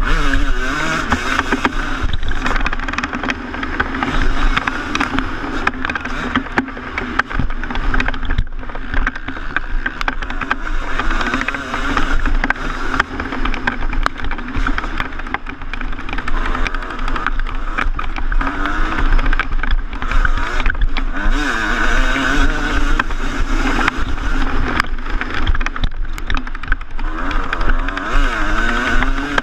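2014 Yamaha YZ250 single-cylinder two-stroke motocross engine under way, its pitch rising and falling again and again, with rushing noise and short knocks.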